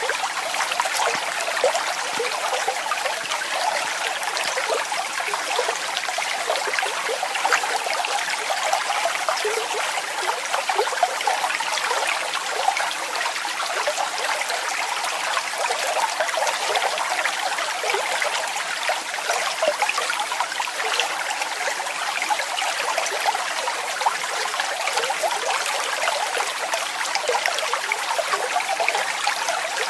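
Waterfall splashing steadily: a continuous bright rush of falling water full of small splashes, with little deep rumble.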